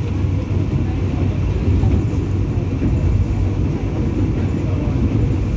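Passenger train running, heard from inside the coach: a steady low rumble with a constant hum underneath.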